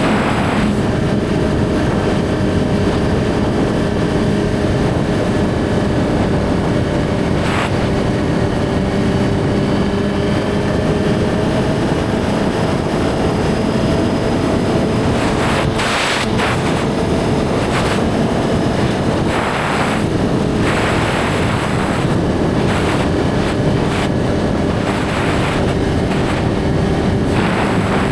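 Suzuki GSX-R1000's inline-four engine running steadily at a cruise, its pitch drifting only slightly, with gusts of wind noise on the microphone.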